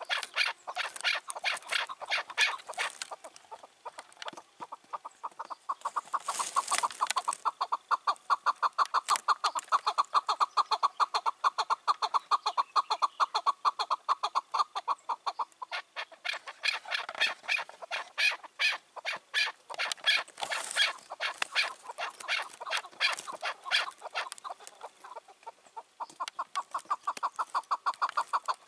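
Chukar partridge calling: long runs of rapid, evenly repeated chuck notes, broken by short lulls about four seconds in and again near the end.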